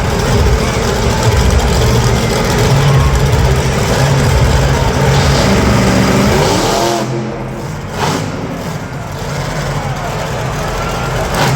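Monster truck engine running loud and revving in an arena, then easing off about two-thirds through with its pitch sliding down, leaving a quieter rumble with a short sharp noise a moment later.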